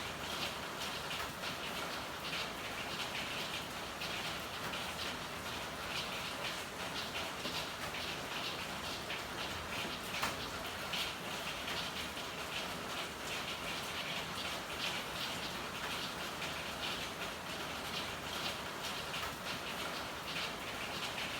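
Steady rain falling in an alley, with irregular drips and patter of drops over a constant hiss, and one sharper tick about halfway through.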